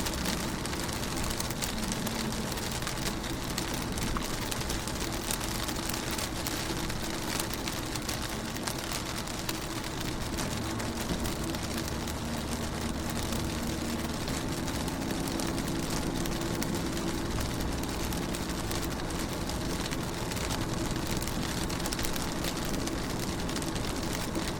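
Rain falling on a car window, a steady patter of drops, with a low hum underneath.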